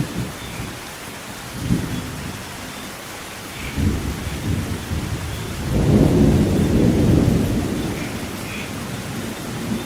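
Steady rain with thunder: a short clap about two seconds in, another a little before four seconds, then a long rolling rumble that builds around six seconds and slowly fades.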